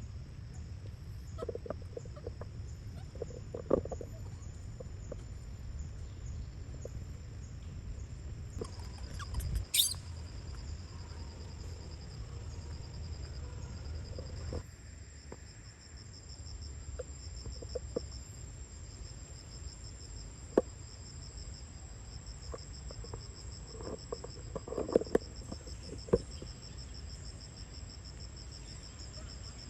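Insects chirping steadily in a high, pulsing trill, over a low rumble, with scattered short clicks and taps; the loudest knock comes about ten seconds in.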